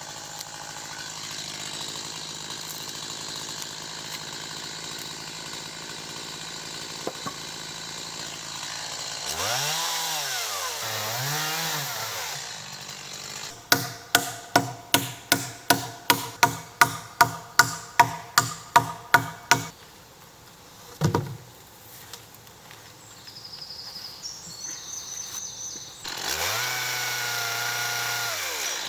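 Chainsaw revving up and down twice, after a steady lower hum. Then comes a run of about eighteen sharp, ringing knocks at about three a second and a single thump, and the chainsaw revs again near the end.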